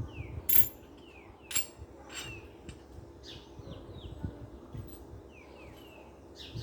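Small birds chirping in short falling notes, with a few sharp clicks or clinks; the loudest clicks come about half a second and a second and a half in. A low steady hum runs underneath.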